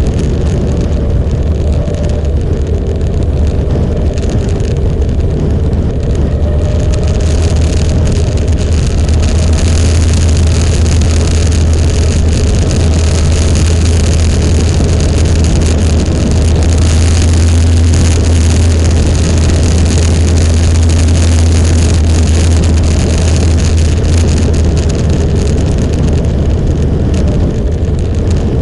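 Motorcycle on the move: the engine runs steadily under a loud low rumble and rush of wind noise, getting somewhat louder through the middle.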